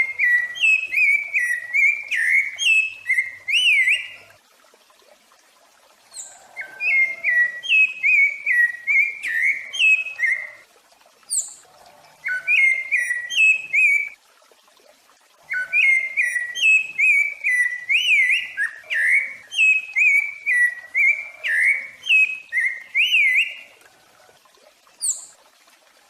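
A songbird singing phrases of quick, clear whistled notes that slide up and down, each phrase lasting two to eight seconds with pauses of about one to two seconds between. A couple of brief, higher-pitched notes stand apart: one in the middle and one near the end.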